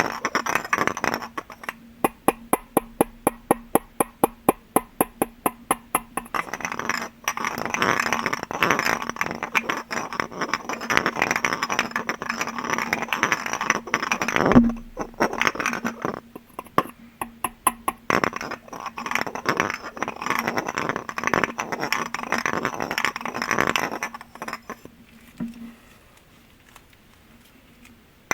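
Rapid tapping on glass objects. First comes an even run of about eight taps a second, then a denser stretch of fast tapping, which stops about four seconds before the end. A faint steady low hum sits under it.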